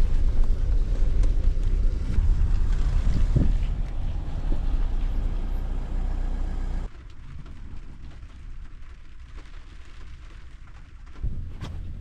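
1989 Scania 93M lorry's diesel engine running with a steady low rumble; the level drops suddenly about seven seconds in and rises again near the end.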